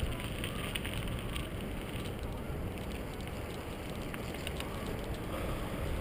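Wind buffeting the microphone and tyre noise from a bicycle being ridden, with scattered light clicks.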